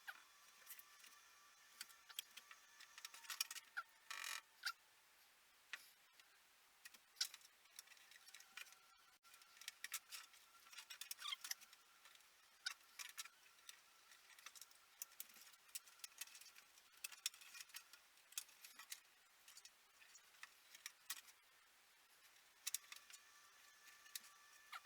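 Faint, irregular clicks and taps of 00 gauge model railway track pieces being handled and fitted together, a few sharper than the rest.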